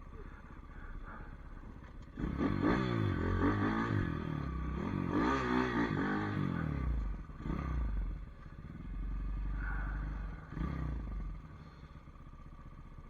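Pit bike engine revving up and down several times, starting about two seconds in. It then settles to a steadier, lower drone and fades out near the end.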